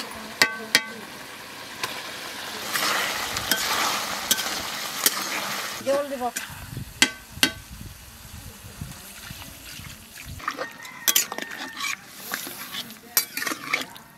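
Cauliflower and chicken curry sizzling in a hot kadai as it is stirred with a metal spatula. The sizzle is loudest in the first few seconds, then settles to a quieter bubbling, with the spatula clicking and scraping against the pan throughout.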